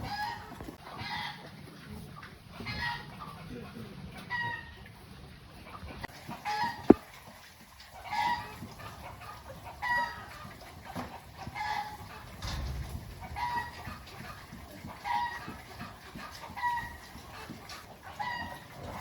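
A chicken calling over and over, short pitched calls about every second and a half to two seconds. A single sharp knock comes about seven seconds in.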